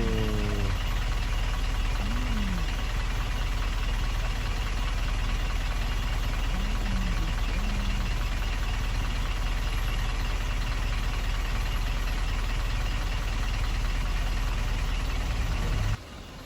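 Truck diesel engine running steadily with a low drone under way, cutting off abruptly near the end.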